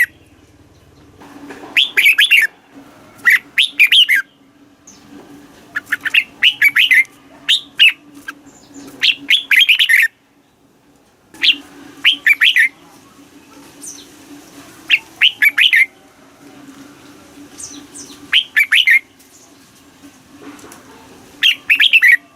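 Red-whiskered bulbul singing: short, loud phrases of quick warbling notes, repeated about every one and a half to two seconds with brief pauses between. A faint steady low hum runs underneath.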